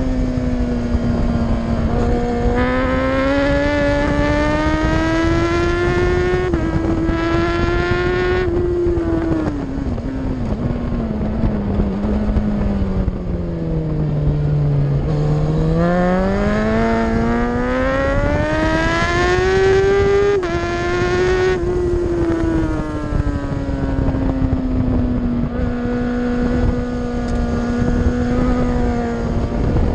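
Race superbike engine at high revs through a track lap: the note climbs slowly, falls away steeply over several seconds around the middle, then climbs again with a sudden drop at a gear change about twenty seconds in, over steady wind rush.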